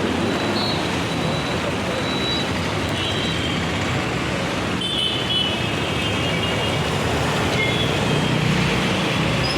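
Steady road traffic noise on a rain-soaked city street during heavy monsoon rain: an even wash of vehicle and wet-road sound.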